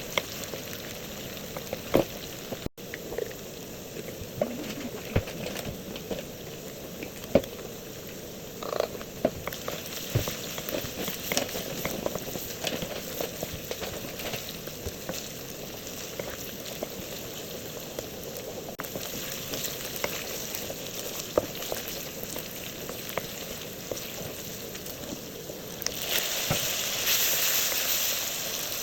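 Chicken frying in hot oil: a steady sizzle with scattered pops and crackles. The sizzle grows louder and hissier near the end.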